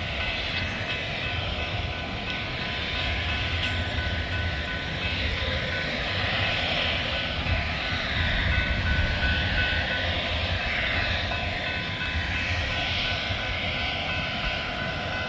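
Steady engine rumble with a faint, even high whine. It does not change or break.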